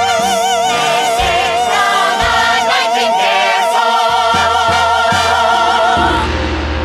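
Show-tune cast recording: a singer holds a long, loud final note with wide vibrato over orchestral accompaniment. The note cuts off about six seconds in, leaving a low held sound.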